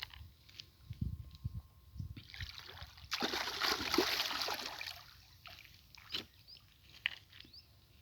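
Water splashing and sloshing, loudest in a rush of about two seconds near the middle, with a few dull knocks before it.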